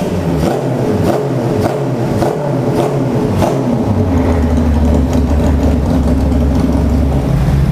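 Four-cylinder motorcycle engine running with its exhaust still lacking a muffler tip: a series of quick pulses about every half second over the first few seconds, then a steady, heavy running note from about halfway.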